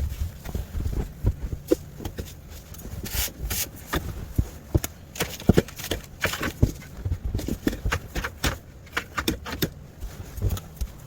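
Irregular crunching and thudding in deep fresh snow, with low wind rumble on the microphone.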